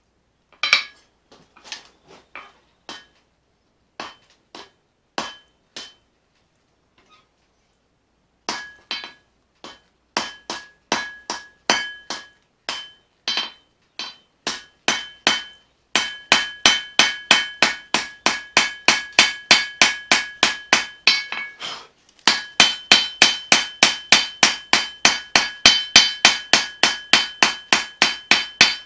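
Hand hammer striking a leaf-spring steel blade on an anvil during forging, each blow leaving a bright metallic ring. A few scattered blows at first, then a fast steady rhythm of about three strikes a second with one short pause.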